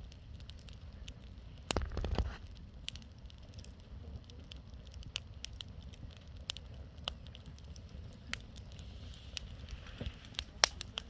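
Bonfire crackling: scattered sharp pops of burning wood over a low, steady rumble. A denser burst of crackling comes about two seconds in, and a few louder pops come near the end.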